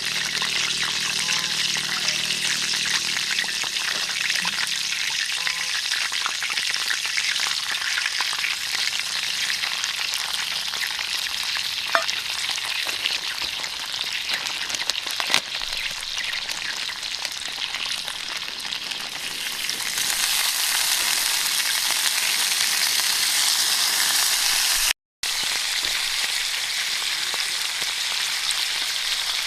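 Food sizzling in a hot frying pan, a dense steady crackle that grows louder about two-thirds of the way through. A couple of sharp clicks sound in the middle, and there is a brief silent break near the end.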